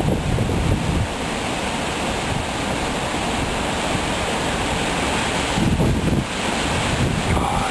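Strong thunderstorm straight-line winds blowing hard through trees, a steady rushing like surf, with gusts buffeting the microphone in the first second, again around two-thirds of the way through, and near the end.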